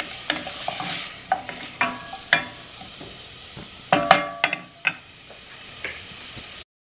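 Wooden spatula stirring and knocking against a stainless steel saucepan, each tap making the pan ring briefly, over a light sizzle of carrots and broccoli sautéing in butter. The sound cuts off suddenly near the end.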